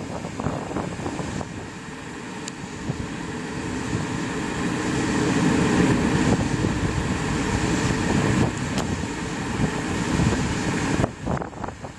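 Wind rushing and buffeting the microphone, swelling to a peak midway and dropping off abruptly near the end.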